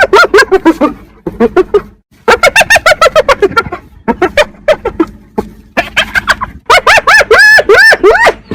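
Spotted hyena giggling: fast runs of short, pitched, yelping notes, several a second, in bursts with short pauses; the notes rise and fall in pitch and climb higher near the end. This giggle is the call hyenas give when excited or frustrated, typically over food or in a social squabble.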